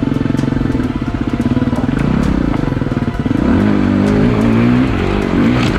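KTM EXC-F four-stroke single-cylinder dirt bike engine running under way; about three and a half seconds in its pitch starts rising and falling as the throttle is worked.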